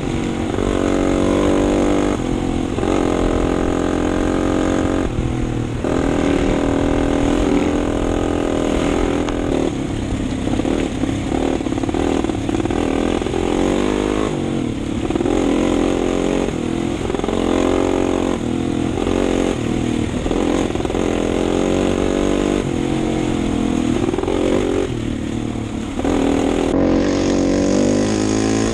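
Husqvarna TE250 four-stroke single-cylinder enduro bike engine, heard close from the rider's body-mounted camera, riding along with the revs climbing and dropping again and again as the throttle is worked and gears change.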